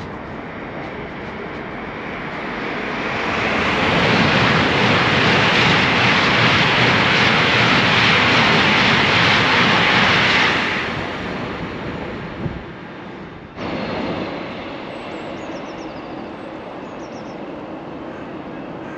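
A high-speed passenger train passing at speed: a rushing noise of wheels and air builds over a couple of seconds, stays loud for about six seconds, then fades away. After a sudden cut, a quieter steady background noise with a few faint bird chirps.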